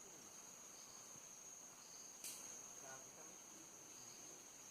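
Faint, steady high-pitched insect trill, a constant chorus of crickets or similar forest insects, with a single soft click about two seconds in.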